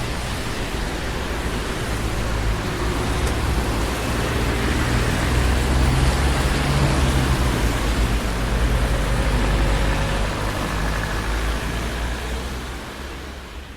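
Busy city street traffic: a steady wash of engine rumble and tyre noise that grows louder around the middle, then fades out near the end.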